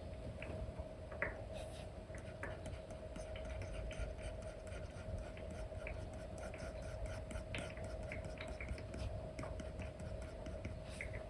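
Apple Pencil 2 with an Elecom nib tapping and scratching across a paper-like matte screen film on an iPad: many small light taps and short strokes, with a steady faint hum underneath.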